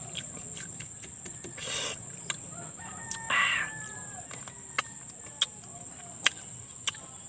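Close-up eating sounds of a person biting into and chewing a sineguelas (Spanish plum): many short lip smacks and mouth clicks, with a louder bite about two seconds in. A rooster crows briefly about three seconds in.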